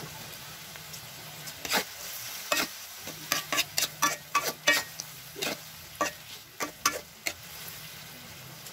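Grasshoppers sizzling steadily in hot oil in a wok, with a metal spatula scraping and knocking against the wok in a quick run of stirring strokes from about two seconds in until about seven seconds in.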